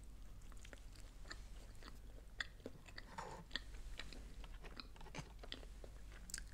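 Faint chewing of a mouthful of quesadilla, with scattered small mouth clicks.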